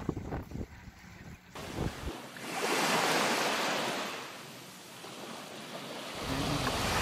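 Wind buffeting the microphone at first, then a steady hiss of falling rain that swells, eases about halfway, and builds again near the end.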